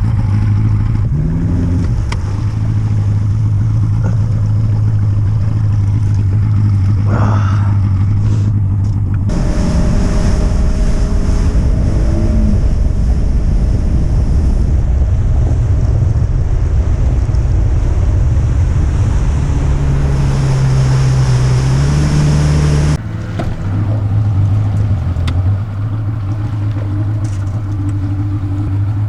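Bass boat's outboard motor running steadily under way, with wind and water rush over it. The sound changes abruptly about nine seconds in and again about twenty-three seconds in.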